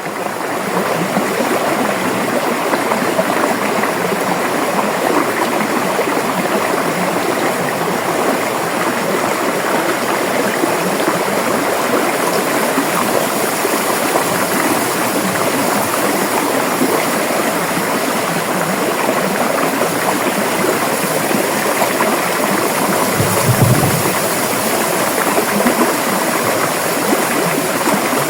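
River water flowing and splashing steadily. There is a brief low thump about 23 seconds in.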